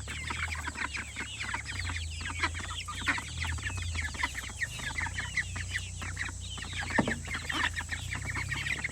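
A flock of chickens clucking and chattering continuously, many short calls overlapping, over a steady low hum.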